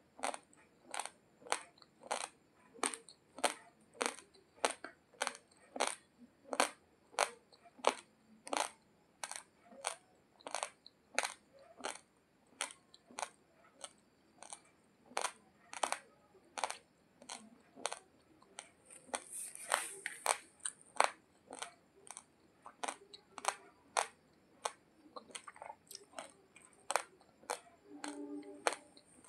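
Raw basmati rice grains crunched between the teeth in steady chewing, a sharp crunch about twice a second.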